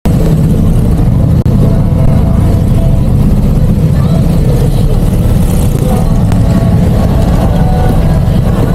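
Loud, steady rumble of a road vehicle travelling at speed, engine and road noise mixed with heavy wind on the microphone, with a brief dropout about one and a half seconds in.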